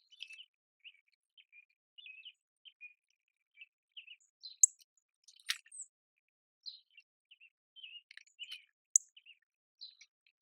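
Small songbirds chirping: many short, scattered chirps, with a few sharper, louder high notes mixed in.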